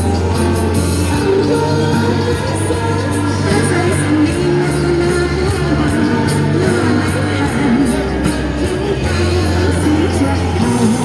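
Singing of a Chinese pop song over a backing track with a steady, prominent bass line.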